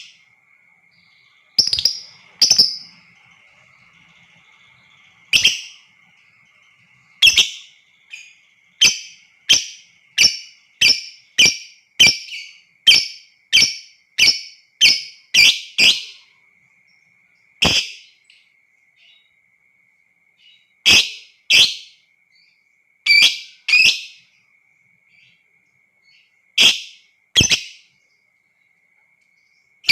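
Lovebird giving short, sharp single calls: scattered at first, then a quick even run of about one and a half calls a second from about seven to sixteen seconds in, then scattered calls with pauses. A faint steady high whine runs underneath.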